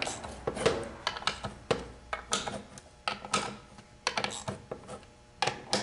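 Irregular clicks and light knocks of metal transmission parts and hand tools being handled and set down during reassembly.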